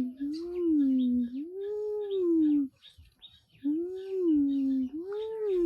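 Long drawn-out howls, about four in a row, each rising and falling in pitch.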